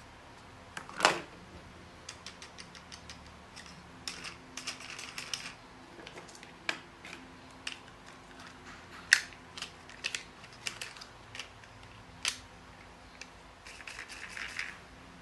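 Irregular sharp clicks and taps of small hard objects being handled, with a quick rattling run of clicks near the end and a faint steady hum underneath. The two loudest clicks come about a second in and about nine seconds in.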